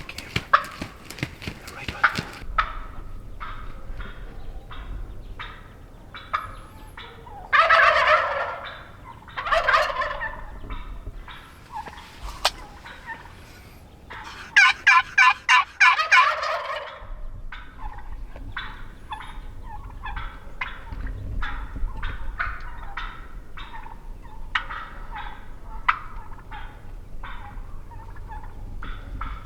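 Merriam's wild turkeys gobbling close by: three loud, rattling gobbles about 8, 10 and 15 seconds in, with many short sharp notes in between.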